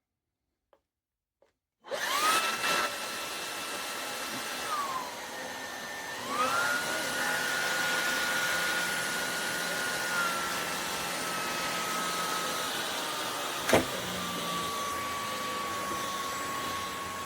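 Shark Detect Clean & Empty vacuum motor switching on about two seconds in with a steady high whine. It winds down briefly about five seconds in, then spins back up and runs on steadily, settling a little lower in pitch, with a sharp click about two-thirds of the way through.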